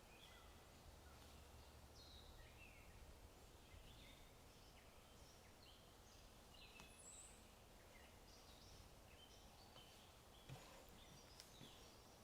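Faint birdsong: many small birds giving short chirps and quick trills over a low background hum, with a single soft click about ten and a half seconds in.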